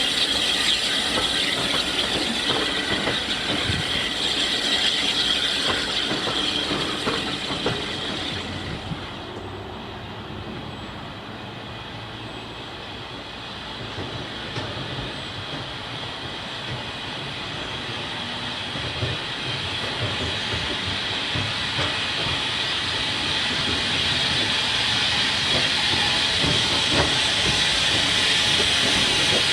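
Hunslet 'Austerity' 0-6-0ST saddle-tank steam locomotive running with a steady hiss of steam. The sound dies down for a few seconds about a third of the way in, then swells again toward the end.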